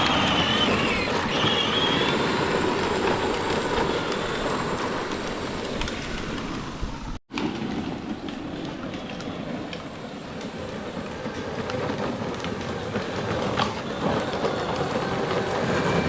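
Children's ride-on toy tractor driving, a steady rattling rumble from its wheels and motor, with a brief dropout about seven seconds in.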